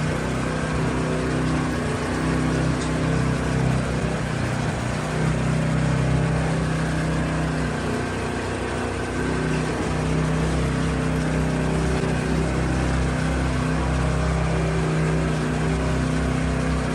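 A motor running steadily at an even pitch, with a hum and a noisy hiss above it.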